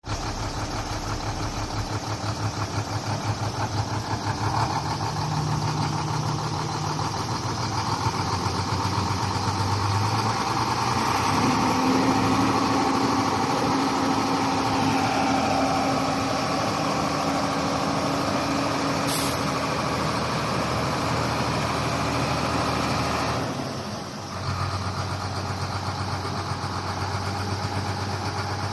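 Diesel engine of a Sinotruk HOWO 6x4 dump truck running. About a third of the way in, its revs rise and hold steady for around twelve seconds, then drop back to an even idle near the end. This is typical of the tipper body being raised by the engine-driven hydraulics.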